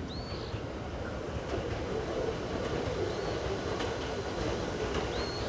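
Hakone Tozan Railway 100-series electric car no. 108 approaching on the rails, a low wheel-and-running-gear rumble that grows slowly louder as it nears.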